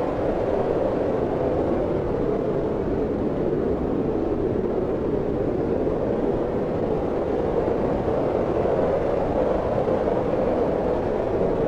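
Steady wind blowing, an even rushing noise that neither gusts nor dies down.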